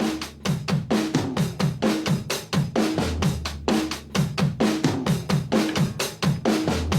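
Background music: a drum-kit beat with bass drum, snare and cymbals, about four hits a second, with short falling low drum notes.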